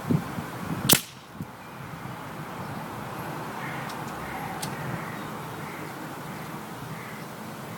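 Weihrauch HW97K spring-piston air rifle firing a single shot about a second in, a sharp crack. It is preceded by a couple of low knocks and followed by a weaker knock about half a second later.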